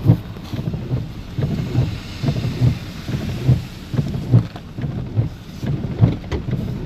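Heavy rainstorm: steady rain noise with irregular low thumps and rumbling.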